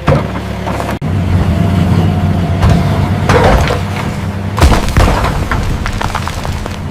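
Mini excavator's engine running steadily, with heavy knocks and a loud thud about halfway through as the bucket breaks rock out of the ditch.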